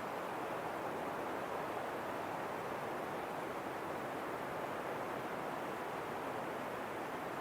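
Steady wind, an even rushing noise with no gusts, breaks or other events.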